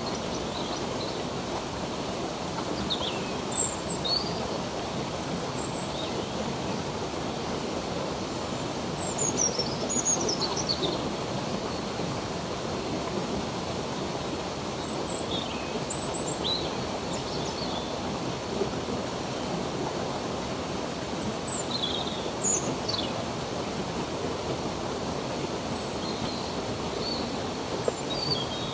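Steady rush of flowing stream water, with short high bird chirps every few seconds, several of them falling in pitch.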